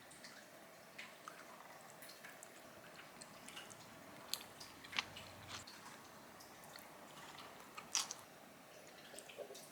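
Faint close-up eating sounds: chewing, with scattered small clicks and taps, two of them louder, about five and eight seconds in.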